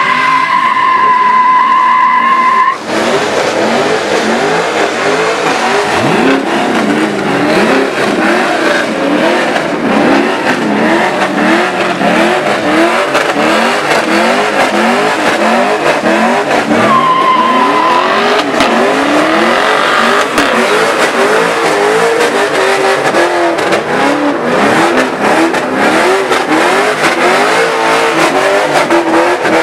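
Car engine revved hard over and over, its pitch rising and falling in quick sweeps, with tires squealing at the start and briefly again just past halfway.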